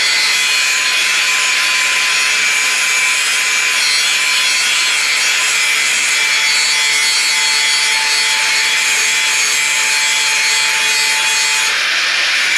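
A power tool cutting into the car body's steel near the old door hinges, running steadily and without pause, with a high, even hiss and a faint steady whine.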